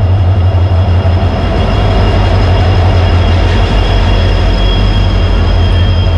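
A diesel-hauled passenger train pulls in slowly alongside. The locomotive's engine drones deep as it passes, under a steady high-pitched squeal from the wheels and brakes as the train slows.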